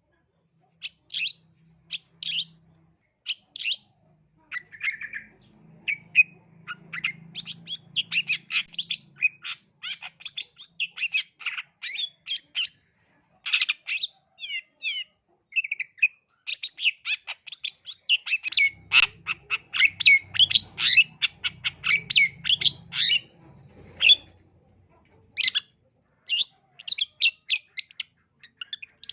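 Long-tailed shrike (cendet) singing, a fast, loud run of sharp chattering notes and short high calls broken by brief pauses.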